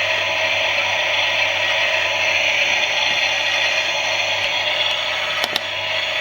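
Klein toy Miele washing machine's small motor and gears running steadily with a dense whirring, with a couple of sharp clicks near the end.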